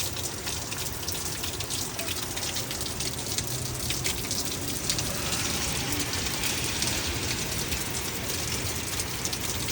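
Heavy rain falling steadily in a windy storm: a constant hiss of many drops hitting surfaces, with a low rumble underneath.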